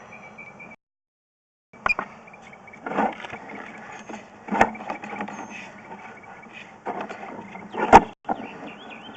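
A sewer camera's push cable being fed down a vent stack into cast iron drain pipe: a steady low hum with irregular knocks and clacks, the loudest about eight seconds in. The sound drops out completely for about a second near the start.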